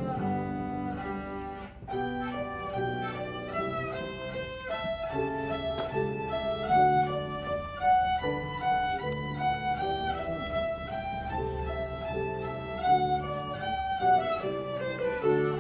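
Solo violin played by a child, a melody of quick changing notes over lower accompanying notes, with a brief break between phrases about two seconds in.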